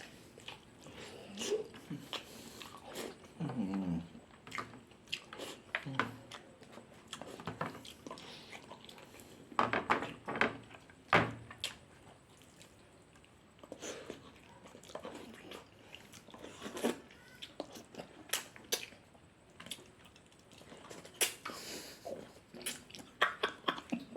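A person eating close to the microphone: chewing and lip-smacking with many short, scattered clicks, and a few brief murmured voice sounds between mouthfuls.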